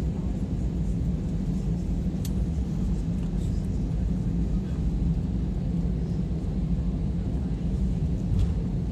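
Steady low rumble inside an Airbus A320 cabin as it taxis after landing, with a couple of faint ticks.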